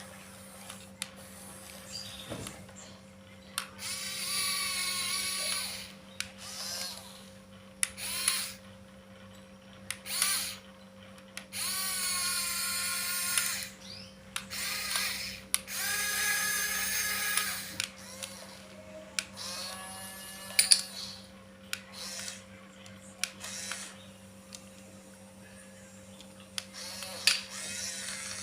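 Small electric gear motors of a remote-control toy excavator whirring in repeated short bursts as its controls are worked, each run lasting about half a second to two seconds.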